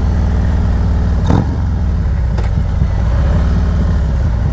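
Harley-Davidson Road Glide's V-twin engine running steadily while riding, with a short click about a second in.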